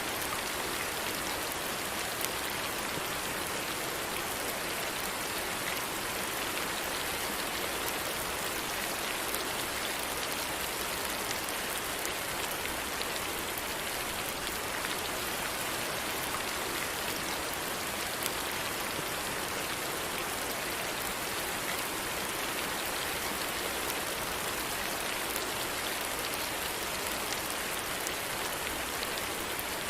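Steady rain falling and pattering on a surface, an even hiss with scattered faint drop ticks.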